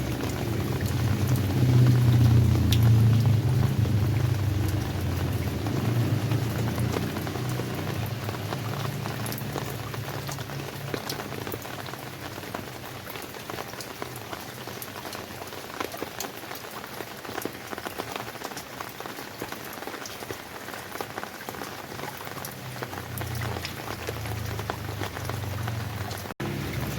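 Steady rain falling, with many individual drops pattering on a surface. A low rumble swells in the first few seconds and fades, then comes back near the end.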